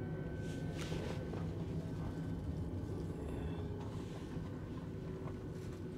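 Steady running rumble of a passenger train heard from inside the carriage: wheels on the rails and the train's running noise, with a faint thin steady whine above it.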